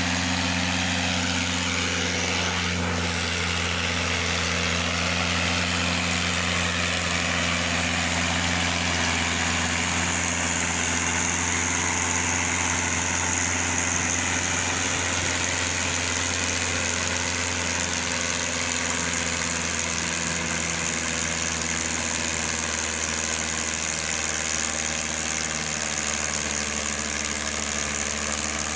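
Tractor engine running at a steady speed, with a high hiss joining about a third of the way through.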